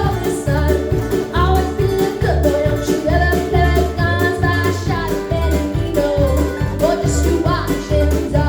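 Live country/bluegrass band music: a voice singing over a bass playing a steady beat, with plucked strings.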